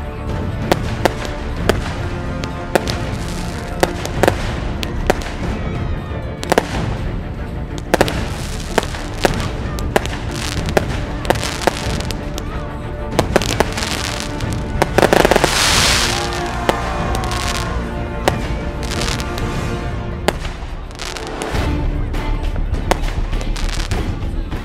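Fireworks shells bursting in quick succession, sharp bangs with crackle, over film-score music. About fifteen seconds in comes a longer hissing crackle, and near the end a deep bass swell in the music.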